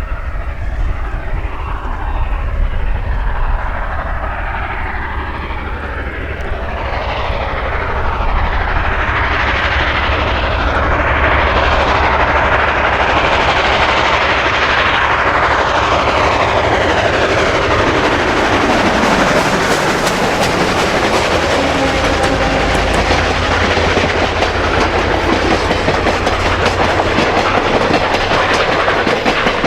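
Steam-hauled train behind 2-8-2 locomotive No. 105 rolling past, its wheels clicking over the rail joints. The sound swells about 7 s in, and its pitch sweeps down as the train goes by, over a steady low rumble.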